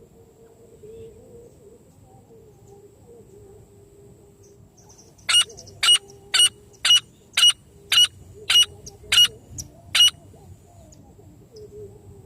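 Francolin (teetar) calling: a run of about nine loud, short, sharp notes, evenly spaced at roughly two a second, starting about five seconds in.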